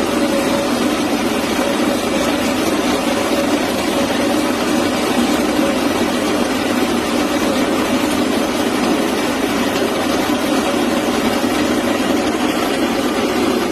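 Baratza Encore conical burr coffee grinder running steadily, its motor giving an even hum with a steady tone.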